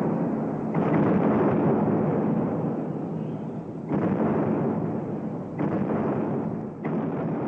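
A run of heavy explosions, each starting suddenly and rumbling on as it fades, with four fresh blasts following one another one to three seconds apart.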